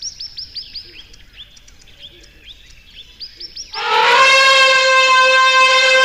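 A run of faint, high chirps, each falling in pitch, about three a second. About four seconds in, an African elephant trumpets loudly in one long, steady call.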